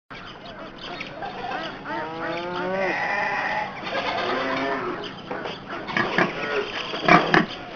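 Several farm animals calling over one another in a continuous chorus of overlapping pitched calls.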